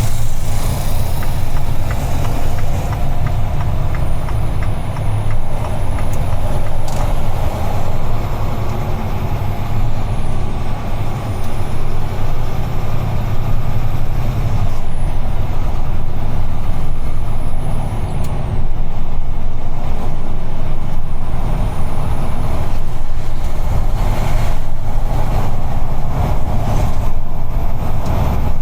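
UD Trucks Quon heavy truck's diesel engine running under way, a steady low drone with road and tyre noise, heard from inside the cab.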